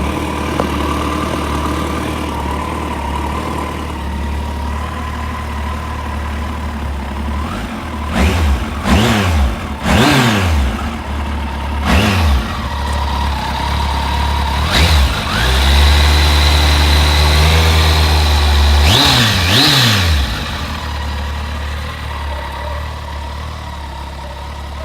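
Kawasaki ZZR1400 inline-four motorcycle engine idling. It is blipped with several quick revs, held at raised revs for a few seconds, blipped twice more, then settles back to idle.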